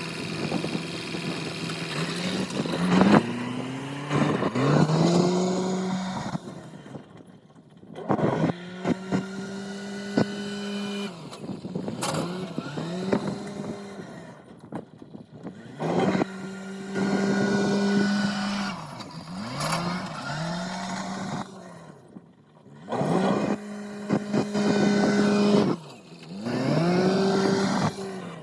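Engine of a corn-handling machine revving up and holding its pitch under load, then dropping back, over and over, with occasional sharp knocks.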